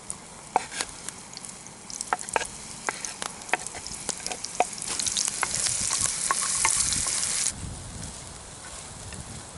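Food frying in a pan, with a utensil clicking and scraping against the pan as it is stirred. About halfway through, a louder hissing sizzle swells up and then cuts off suddenly.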